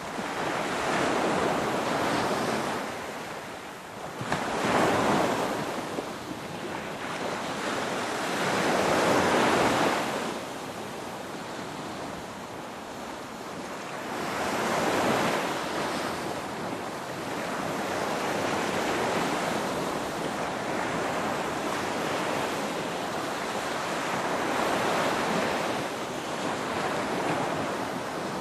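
Ocean waves breaking and washing on the shore, a continuous rushing surf that swells and recedes every few seconds.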